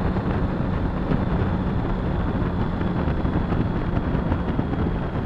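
Motorcycle engine running at a steady cruising speed, with wind rush on the microphone.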